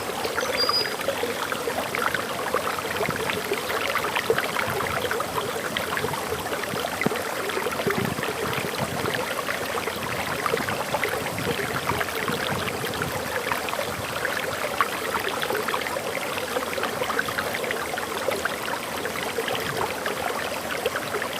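Water falling and flowing over a forest waterfall: a steady rushing splash with many small, quick splashes in it.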